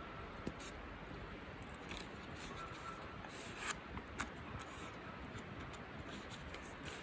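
Campfire crackling faintly, with a few sharp, irregular pops, the loudest two about halfway through.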